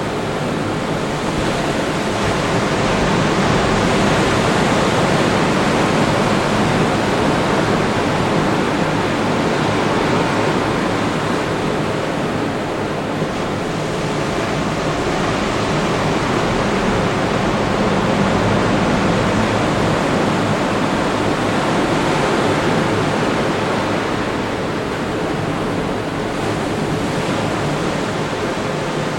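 Ocean surf breaking on a beach: a continuous wash of waves that swells and eases slowly.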